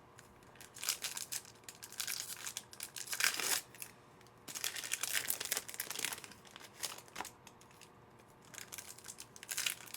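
Foil wrapper of a football trading-card pack crinkling and tearing in several irregular bursts as packs are opened and handled.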